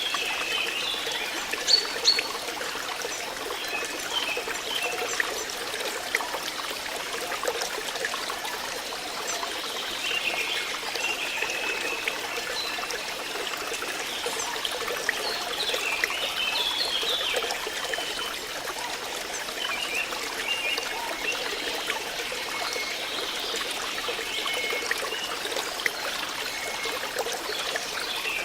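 Water flowing and trickling steadily, as from a small stream, with no pauses.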